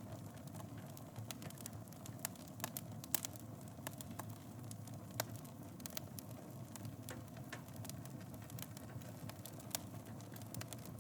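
Wood fire burning in a fireplace, with a steady low rumble of flames and frequent irregular crackles and pops, a few louder ones scattered through.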